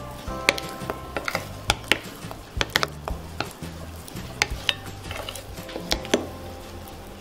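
A spatula stirring thick pancake batter in a bowl, with irregular clicks and knocks as it strikes the bowl's side, over background music.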